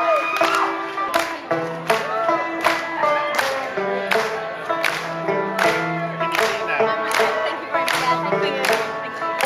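Live band playing an instrumental song intro: a steady beat about every three-quarters of a second under sustained pitched notes, with a few crowd whoops near the start.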